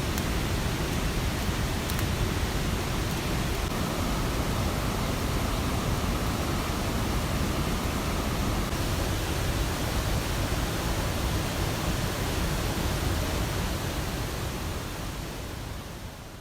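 Steady rushing of rain and a mountain stream, fading out near the end.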